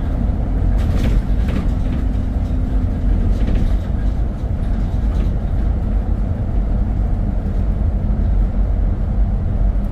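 Steady low rumble of a road vehicle on the move: engine and road noise, with a few light knocks about a second in.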